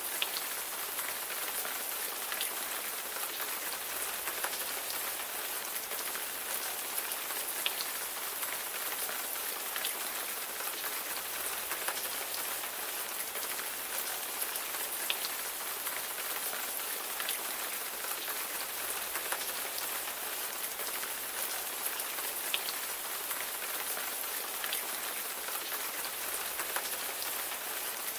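Steady rain falling on a surface: an even hiss with many small scattered drop ticks.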